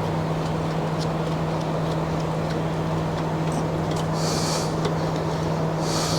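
Steady mechanical hum with a constant low tone, running throughout, with a few faint clicks and two short hissing scrapes, one about four seconds in and one near the end.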